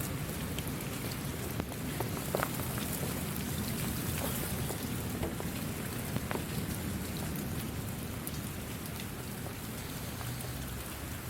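Steady rain falling, with scattered sharp clicks of individual drops striking close by over an even wash of noise.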